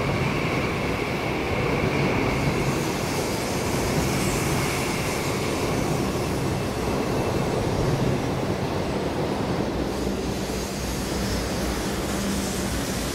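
High-speed electric train passing at speed: a steady rush of wheel and air noise, with a thin high whine in the first half that fades out about halfway through.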